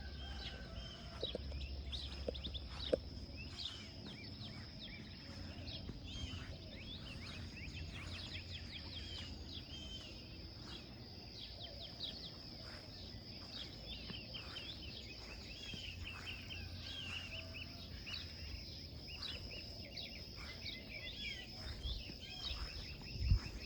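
Many birds chirping and calling at dawn, short rapid chirps throughout, over a steady high-pitched tone and a low rumble. A single low thump comes near the end.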